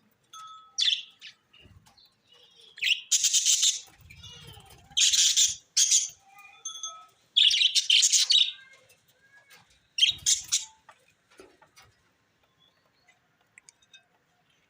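Pet budgerigars chirping and chattering in loud, high-pitched bursts every second or two, which die away for the last few seconds.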